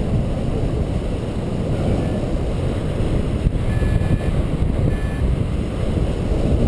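Wind buffeting the microphone in flight under a paraglider: a steady low rumbling rush. A few faint short electronic beeps come through near the middle.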